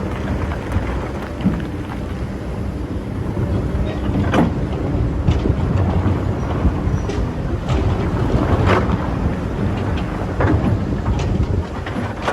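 Excavator's diesel engine running steadily while it digs sand, with a series of sharp knocks and scrapes from the bucket scattered through.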